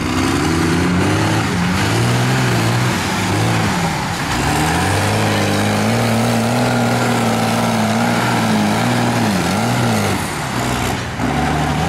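Mud truck's engine revving, its pitch rising and falling as the throttle is worked, held fairly steady for a few seconds in the middle, then dipping and climbing again several times near the end.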